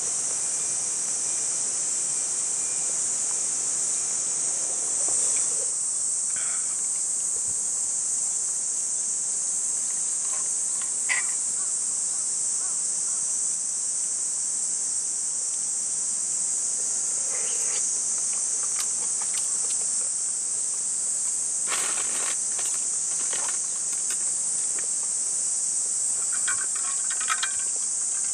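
Dense, steady chorus of summer insects, an unbroken high-pitched drone, with a few faint clicks and knocks now and then.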